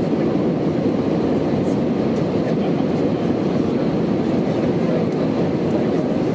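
Steady engine and airflow noise inside the passenger cabin of an Airbus A319-111 jet airliner with CFM56 turbofans, heard at takeoff or climb power, with a few faint cabin rattles on top.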